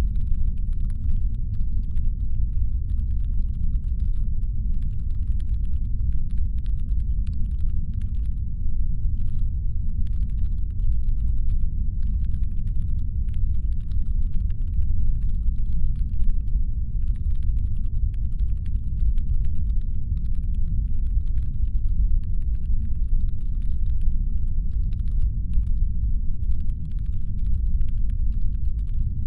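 Deep, steady brown-noise rumble standing in for a spaceship's engine hum, with a faint layer of rapid clicking over it that pauses briefly a few times.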